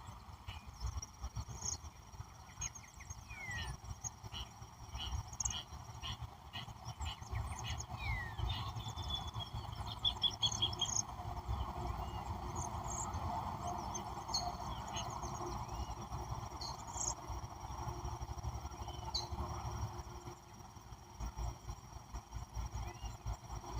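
Mixed wild birdsong: many short chirps and down-slurred whistles from several birds, with a rapid trill about nine to eleven seconds in. A thin steady high tone runs underneath, over a low rumble of wind on the microphone.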